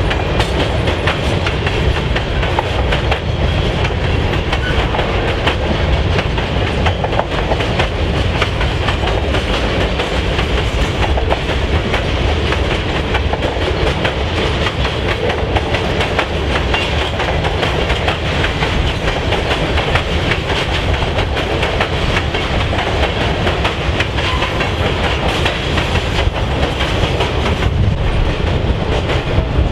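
A train's cars rolling past at close range: a steady, loud rumble of steel wheels on rail with a continuous run of clicks over the rail joints, unchanging throughout.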